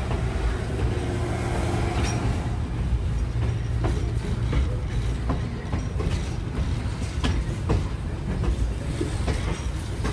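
Train running along the track, heard from an open doorway of a car: a steady low rumble with irregular sharp clacks from the wheels going over the rail joints.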